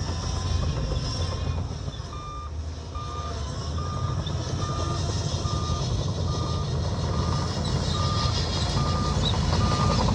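Heavy diesel machinery rumbles at work, and its reversing alarm starts beeping about two seconds in, at a steady rate of about one and a half beeps a second.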